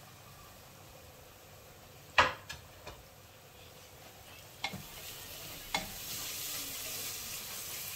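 A spoon knocking sharply against an aluminium pressure cooker a few times, the loudest about two seconds in, as ginger-garlic paste is stirred into browned onions in hot oil and ghee. A frying sizzle builds from about halfway and grows louder toward the end.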